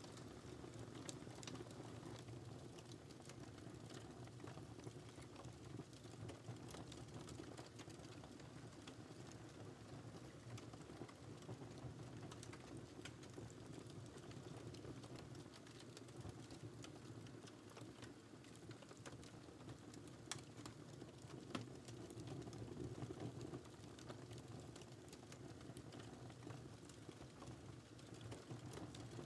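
Fire in a fireplace crackling: a soft steady low rush with scattered small pops and snaps, and a couple of sharper snaps about twenty seconds in.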